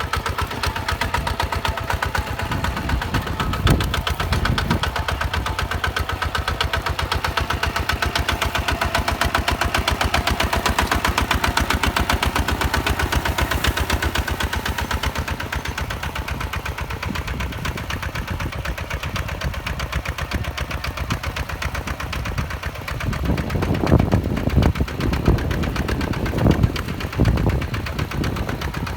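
Hinota HG Gold 155 DI tractor's diesel engine running with a steady, rapid chug, a little louder in the middle. Several heavier low thumps come through near the end.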